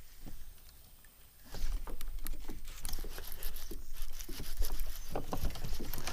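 Rustling, scraping and a rapid run of clicks and knocks over a low rumble, starting about a second and a half in. This is the sound of an angler in a kayak fighting a hooked bass, with his line snagging in low-lying branches.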